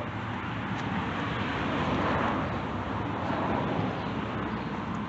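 Briggs & Stratton lawn mower engine running steadily, swelling slightly about two seconds in. It is being test-run after its idle-control linkage was shortened.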